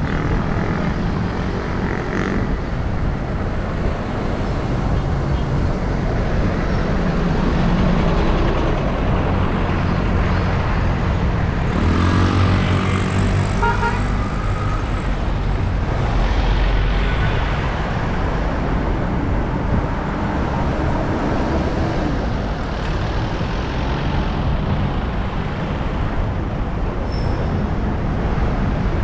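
City road traffic heard while riding: vehicle engines running and tyre and wind noise, steady throughout. About twelve seconds in, an engine revs up with a rising pitch.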